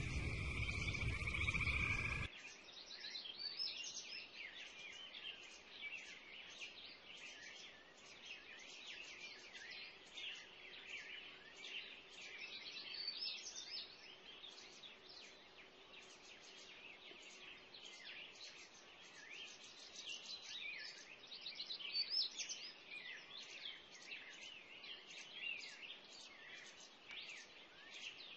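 A dense chorus of many animals calling together: countless short, high, rising chirps overlapping without a break. It opens with a louder sound holding a steady tone, which cuts off about two seconds in.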